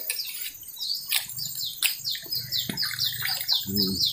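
A bird calling a run of short, falling, high notes that settles into about four a second from about halfway, over a steady high insect hiss, with a few sharp clicks in between.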